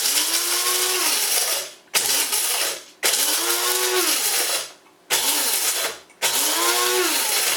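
One-touch electric coffee grinder grinding whole coffee beans in five pulses, long and short runs alternating with brief pauses between them. Each run has a motor whine that rises and then falls in pitch.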